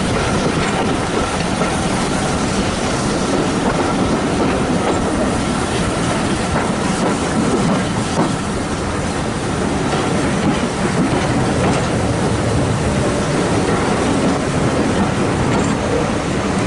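Railway coach running steadily along the track, heard from on board, with wheels clicking over rail joints and a faint steady squeal from the wheels.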